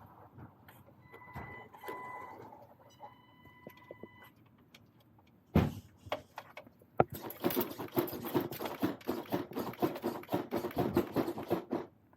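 Electric RC crawler truck running, its motor and drivetrain making a rapid, dense rattle that starts about seven seconds in, after a single knock.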